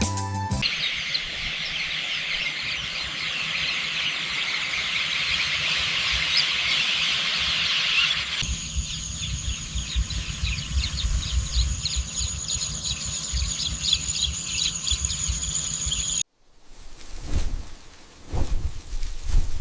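Dense, high-pitched outdoor chirping chorus that changes texture partway through and takes on a steady high whine. It then cuts abruptly, near the end, to wind gusting on the microphone.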